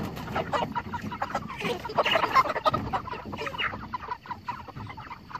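A flock of broiler chickens clucking and calling in many short, overlapping notes while being crowded to the front of a pasture pen, amid rustling.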